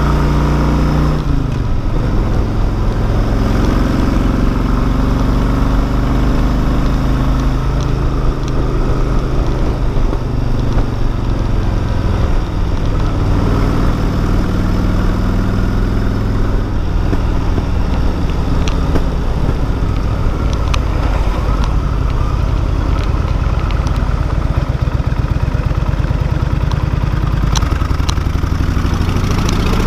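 Cruiser motorcycle engine running while the bike is ridden uphill. The engine note drops about a second in, then rises and falls repeatedly with throttle and gear changes.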